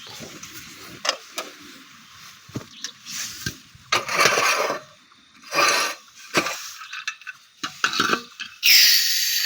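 Metal camping gas stove and gas cylinder being handled and set up: a run of scrapes and clinks, ending in a sharp hiss of about a second.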